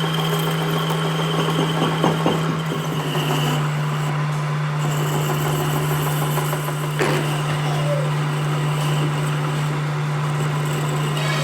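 A workshop machine's motor running with a steady hum, with a sharp knock about seven seconds in and fainter knocks about two seconds in.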